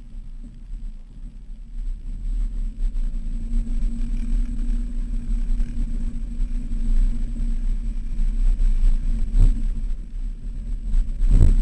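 Vehicle engine running with a steady low drone and rumble. It gets louder about two seconds in, and there are two short thumps near the end.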